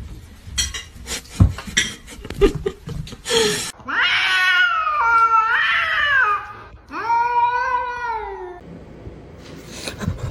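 A cat yowling: one long wavering call, then a shorter second one. Before them comes a run of knocks and clatter.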